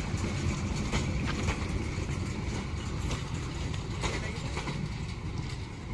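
Moving train running on the rails: a steady low rumble with a few sharp clacks.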